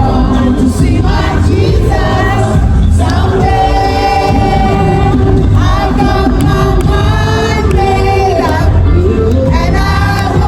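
Gospel worship music, loud and continuous: voices singing together over a band with a strong, steady bass.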